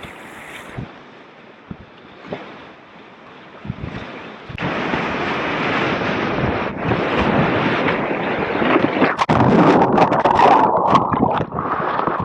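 Rushing whitewater of a mountain river, heard from a kayak. It is fairly quiet at first with a few light knocks, then turns suddenly much louder about four and a half seconds in and stays loud.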